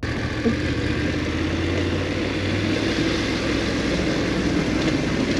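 BMW F850GS parallel-twin engine running steadily at low revs, with a constant rushing noise over it.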